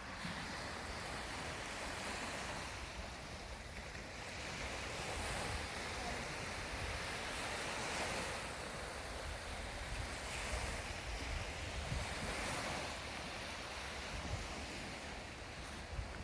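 Outdoor rushing noise that swells and eases every two to three seconds, with low rumbling buffets of wind on the microphone.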